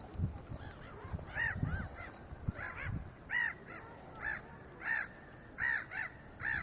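Geese honking: a run of repeated arched honks, about one or two a second, with a few low thumps underneath.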